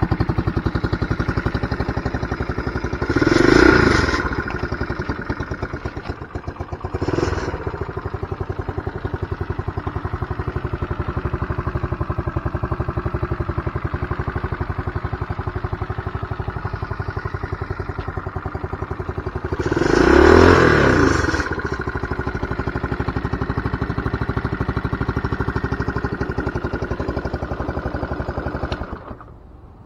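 Honda CT90 Trail motorcycle's single-cylinder four-stroke engine idling, revved up briefly twice with a smaller blip between, then shut off a second before the end.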